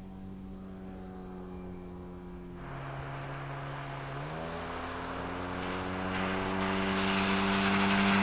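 A boat motor running and drawing closer, growing steadily louder; its pitch drops about three seconds in and climbs again a second and a half later as the throttle changes.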